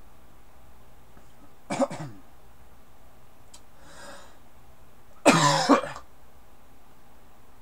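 A person coughing: a short cough about two seconds in and a louder, longer one about five seconds in.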